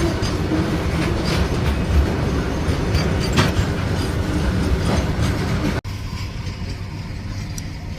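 Steady vehicle rumble with road and rattle noise. About six seconds in there is an abrupt cut, after which it continues somewhat quieter.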